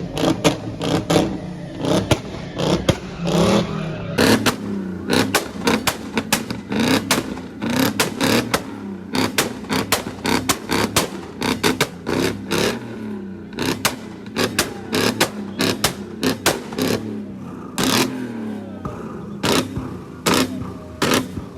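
Car engines revving, their pitch rising and falling, with a rapid, irregular string of sharp cracks throughout.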